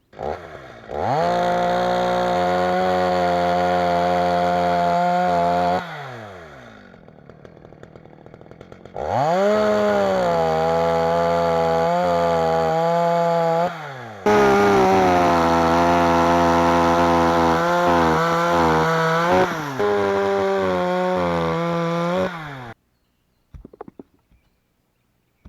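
Chainsaw revving up and running at high speed in three long stretches, dropping back toward idle between them, while sawing firewood. It stops abruptly near the end, followed by a few faint knocks.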